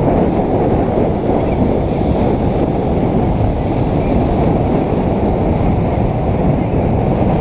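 Strong wind buffeting the microphone in a steady low rumble, with breaking surf beneath it.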